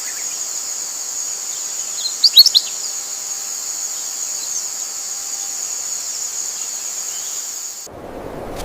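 A steady high-pitched insect buzz, with a quick run of bird chirps about two seconds in, the loudest sound here. Near the end it cuts suddenly to a low rushing noise.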